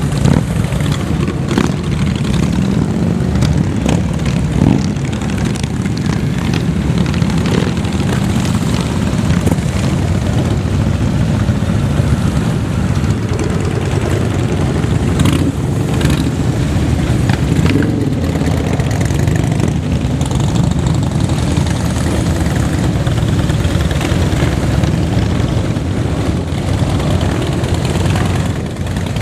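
Several motorcycle engines running together in a steady, loud, low rumble.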